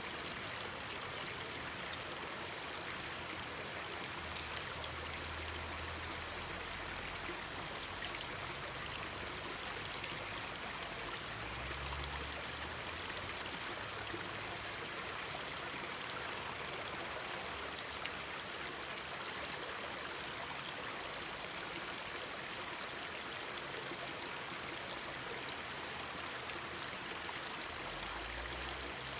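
Mountain stream babbling steadily over rocks, with a few faint pops through it.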